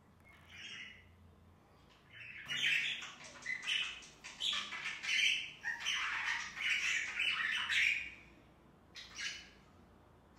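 Budgerigars chattering and squawking: a short call, then about six seconds of busy, high-pitched warbling chatter, and another short call near the end.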